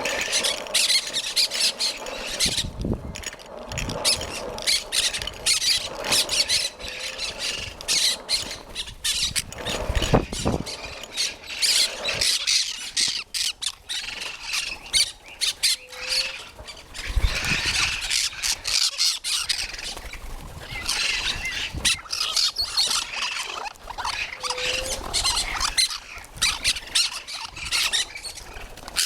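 Parrots and parakeets squawking and screeching, many harsh calls overlapping without a break as the flock comes in to feed. A few dull knocks sound now and then underneath.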